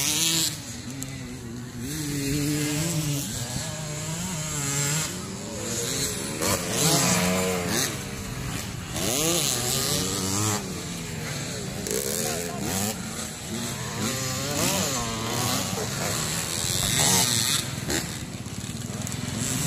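Several motocross dirt bikes' engines revving, their pitch rising and falling and overlapping as riders open and close the throttle.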